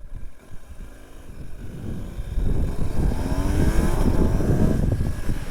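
BMW R 1250 GS boxer-twin engine accelerating hard under throttle. The engine note rises sharply from about three seconds in, after a low rumble at lower revs.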